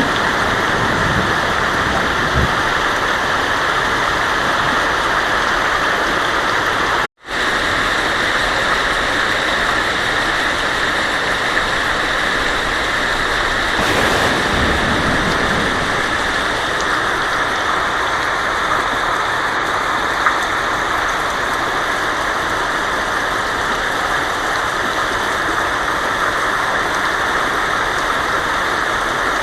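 Heavy rain falling on a tin roof as a steady, dense hiss. The sound cuts out completely for a split second about seven seconds in.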